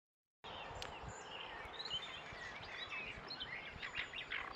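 Small birds chirping and calling over a faint, steady outdoor hiss, starting after a brief moment of silence.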